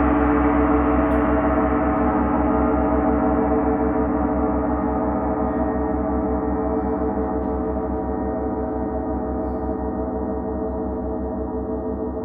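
A sustained ringing chord of many steady tones, slowly fading, with an even throbbing pulse in the low end.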